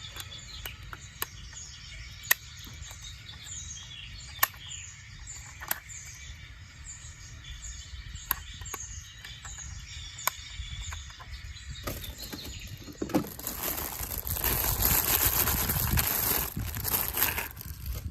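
Birds chirping over and over in short high calls, with a few sharp clicks and a low rumble underneath. About two-thirds of the way through, a loud rushing hiss comes in and covers them, dropping away just before the end.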